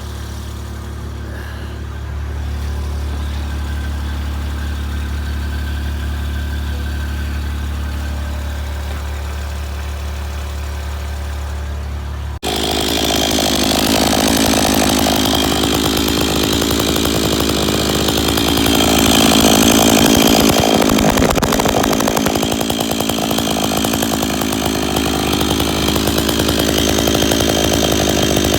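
Stihl MS461 two-stroke chainsaw idling steadily, then suddenly opened up to full throttle about twelve seconds in and held there, its pitch dipping and recovering as the engine is loaded. The saw is fitted with a custom thick-walled billet aluminium muffler cap.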